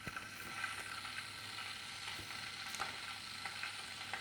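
Electric kettle heating cold water just after being switched on: a steady, quiet hiss from the element, with faint scattered ticks and crackles.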